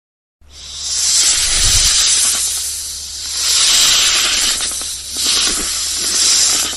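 A loud animal hiss that swells and eases three times, then cuts off sharply near the end.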